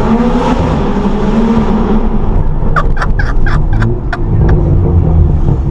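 Straight-piped, tuned BMW M135i's turbocharged 3.0-litre straight-six accelerating hard, its note rising in pitch. Then it lets off with a rapid string of exhaust pops and bangs about three seconds in.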